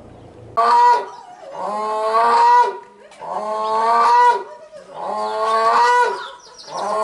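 An animal calling loudly over and over: drawn-out pitched calls about a second long, one roughly every second and a half.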